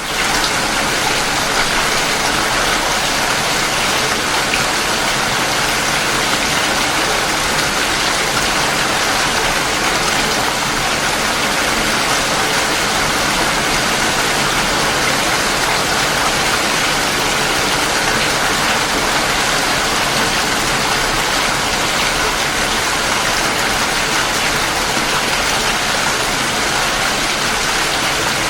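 Steady heavy rain falling, an even hiss that holds at the same level without a break.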